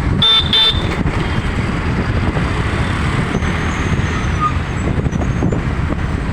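Steady rumble of road traffic and vehicle engines, with two short high-pitched beeps within the first second.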